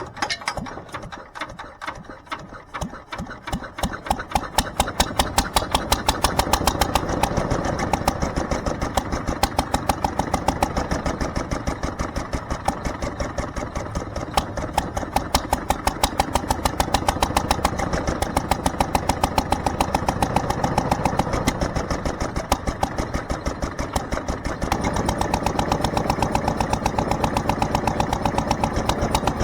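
McCormick-Deering (International Harvester) LB single-cylinder stationary engine starting: it catches, its firing strokes come faster over the first few seconds, and then it runs at a steady, even beat. It gets a little louder near the end.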